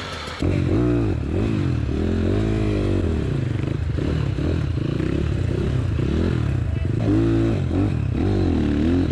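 Enduro motorcycle engine revving up and down over and over, rising and falling in pitch every second or so over a steady low drone. It comes in suddenly about half a second in.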